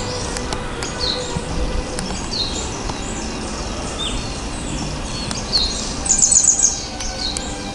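Small songbirds chirping with short, high calls, scattered throughout, with a quick run of repeated high notes about six seconds in.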